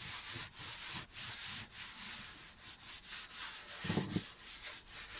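Rhythmic back-and-forth rubbing strokes on the plywood camper floor, about three to four a second, as the glued surface is worked smooth. A brief low thud comes about four seconds in.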